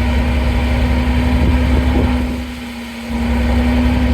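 Vintage vehicle engines running at low speed with a steady low hum throughout. The level dips briefly a little past the middle.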